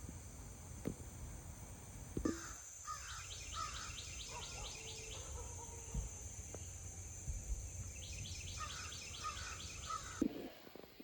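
Birds calling outdoors: two spells of rapid repeated chirping notes, with a steady high buzz under them that starts about two seconds in and stops near the end, over a low rumble of wind.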